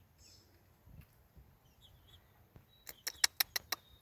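Faint high chirping from young chickens, then a quick run of about six sharp clicks a little before the end.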